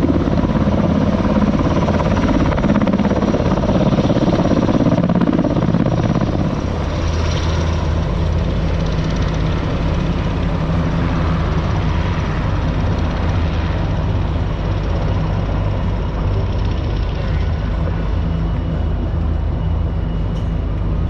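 Military helicopter flying past, its rotor and engine noise loudest in the first few seconds and then easing off as it draws away.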